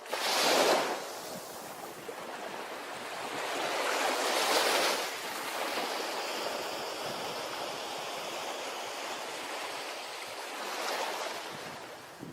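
Ocean surf on a beach: a wave crashes just after the start, a second surge swells up and peaks about four and a half seconds in, then a steady wash of foam, with a smaller swell near the end.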